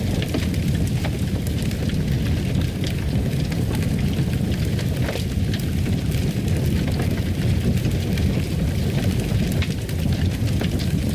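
Fireplace fire crackling, with scattered sharp pops over a steady low rumble.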